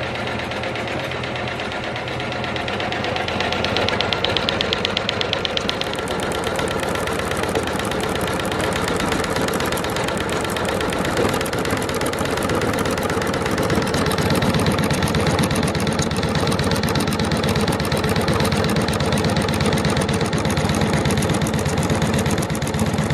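Embroidery machine running, its needle stitching in a rapid, even rhythm, getting a little louder after about two seconds.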